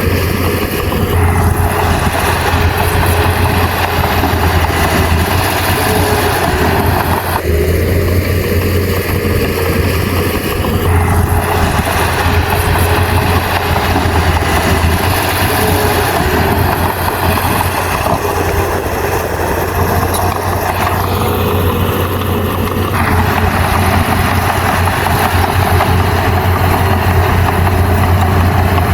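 Komatsu bulldozer's diesel engine running steadily with a deep, constant hum. The noise above the hum changes abruptly several times as the machine works.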